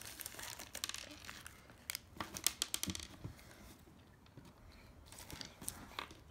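Packaging crinkling and rustling in irregular bursts of small crackles and clicks, dying down for a second or so past the middle before picking up again.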